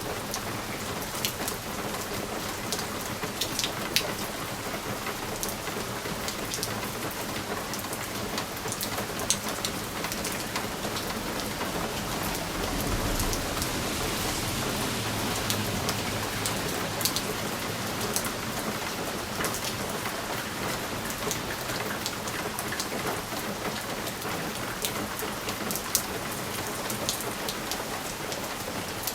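Steady rain on window glass, with many sharp individual drop taps over an even hiss. In the middle a low rumble of distant thunder swells and fades.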